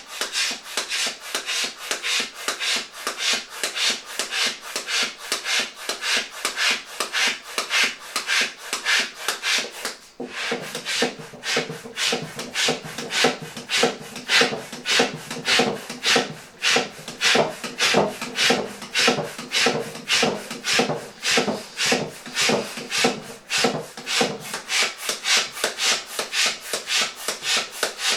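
Manual balloon pump being worked quickly to inflate a PVC balloon: a rapid, even run of pumping strokes, about three a second, pausing briefly about ten seconds in.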